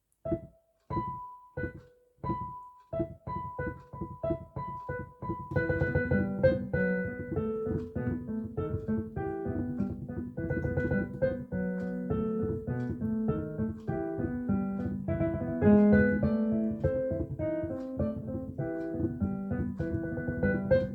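Digital piano on its concert grand piano voice playing a children's song tune. It opens with a slow line of single notes, about one every half second, and roughly five seconds in a fuller accompaniment of chords and bass joins in.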